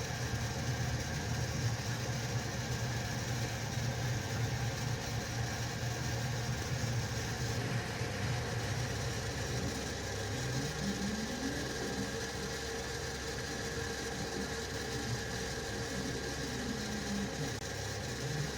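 FlashForge Adventurer 4 3D printer running, its fans and motors making a steady whir and hum. From about halfway through, the stepper motors whine in short glides that rise and fall in pitch as the print head changes speed.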